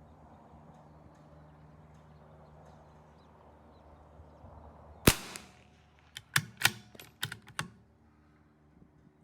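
A single shot from a CZ 457 AT-ONE .22 LR bolt-action rifle about five seconds in, followed about a second later by a quick run of six metallic clicks as the bolt is worked to eject the case and chamber the next round.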